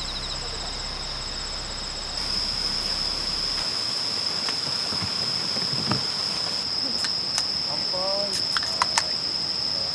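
Crickets chirring steadily at one high pitch, growing louder about two seconds in. A few sharp clicks and a faint voice come near the end.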